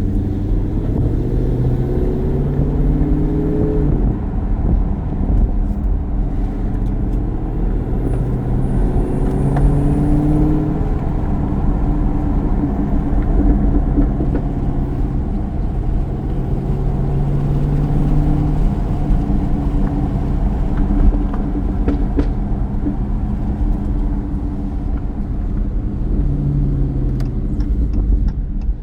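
Dodge Challenger Hellcat Redeye's supercharged 6.2-litre V8 running through a Corsa Xtreme exhaust while driving, under a steady heavy low rumble. The engine note swells and eases several times with light throttle.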